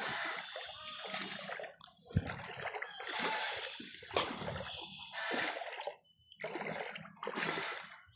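Floodwater splashing in a string of separate irregular splashes, roughly one a second, with short gaps between them.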